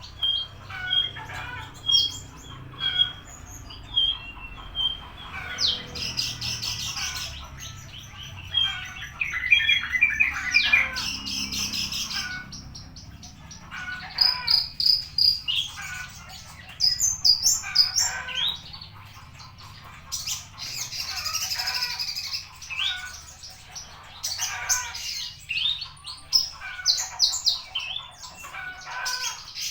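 Horsfield's bush lark (branjangan) singing a long, varied song: a continuous run of chirps, quick trills and buzzy phrases, barely pausing.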